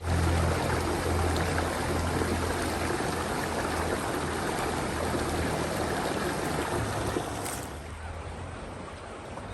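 Steady rush of running water with a low hum underneath; it drops in level about seven and a half seconds in.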